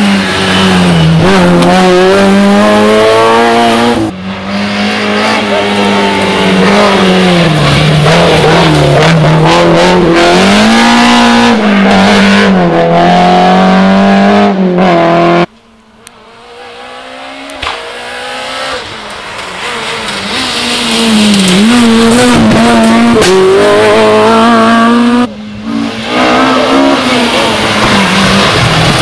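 Rally car engines at full throttle close by, the pitch rising and falling as the cars rev through the gears. About halfway through the sound cuts off suddenly, then another car's engine builds up to full loudness.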